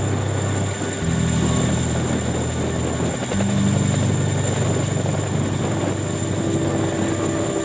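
Helicopter running: a steady low drone of engine and rotor noise that shifts in pitch abruptly a couple of times.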